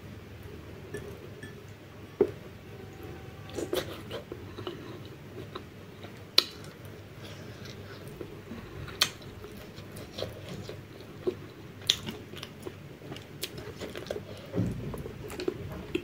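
A person chewing and biting food close to the microphone, with a handful of sharp clicks scattered through it.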